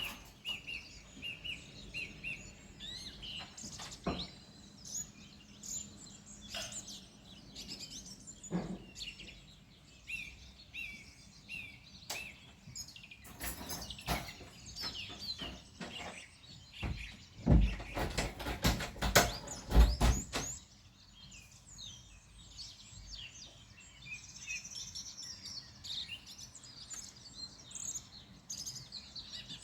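Small songbirds chirping and twittering throughout. Midway through, several seconds of loud crackling and thumping drown them out.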